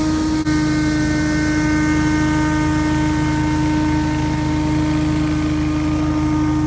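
Scag Windstorm stand-on leaf blower running steadily, its engine and fan giving a loud, even hum with a steady tone over the rush of air. The sound dips briefly about half a second in, then carries on unchanged.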